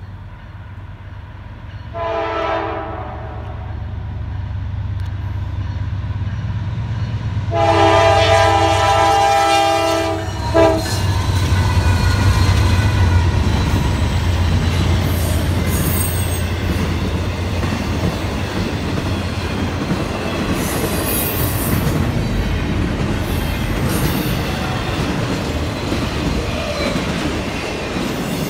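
Norfolk Southern intermodal freight train: the lead diesel locomotive sounds its multi-chime air horn, a short blast about two seconds in and a longer blast of about three seconds a little later, over a rising engine rumble as it approaches. The locomotive then passes, and the long train of trailers and containers rolls by with steady wheel-on-rail rumble and clatter and a few brief high wheel squeals.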